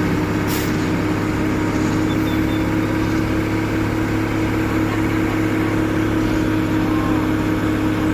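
Heavy truck diesel engine running steadily at a constant speed, with no revving.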